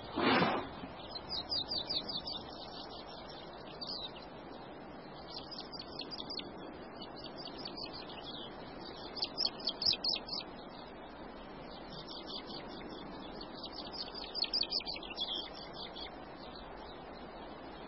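Small birds singing in rapid, high, trilling bursts of chirps that come and go every few seconds over a steady outdoor hiss. A short, louder, lower-pitched call sounds once at the very start.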